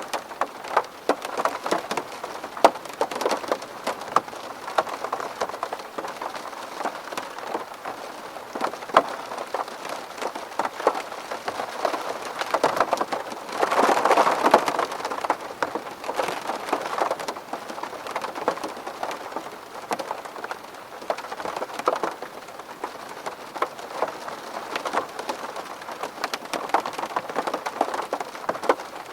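Rain falling on a window pane: many separate drops tapping over a steady hiss, heavier for a couple of seconds about halfway through.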